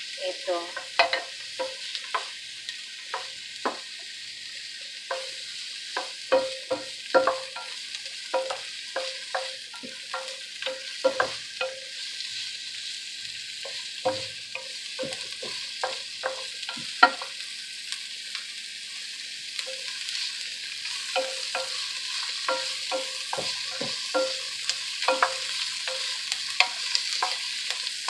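Chopped garlic and onions frying with a steady sizzle as they start to brown. A wooden spatula stirs them, scraping and knocking against the pan in irregular strokes about once or twice a second.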